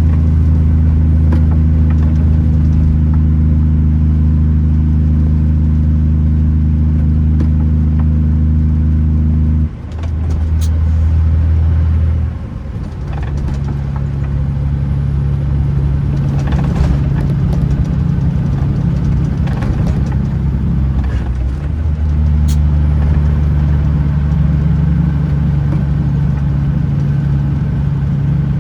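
Kenworth T909 truck's diesel engine running steadily on the road. Its drone drops and changes pitch about ten seconds in and again two seconds later, then settles into a steady pull. A faint high whistle rises twice in the second half.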